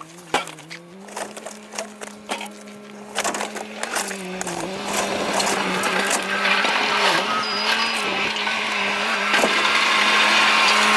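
A steady engine hum throughout, with scattered knocks and clunks in the first few seconds, then a loud rushing, whooshing noise that builds from about four seconds in and holds.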